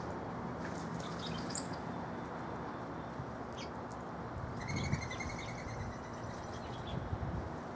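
Small wild birds chirping: a short high call about a second and a half in, and a quick run of repeated notes around five seconds in, over a steady background hiss.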